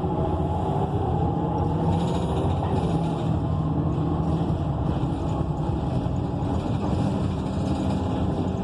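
Inside a moving city bus: the Cummins Westport ISL G natural-gas inline-six engine running steadily with tyre and road noise, heard in the cabin with no air conditioning running.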